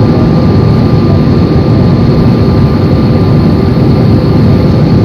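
Steady, loud drone of an aeroplane's engines and rushing air, heard inside the passenger cabin in flight, with a few thin steady whining tones over it.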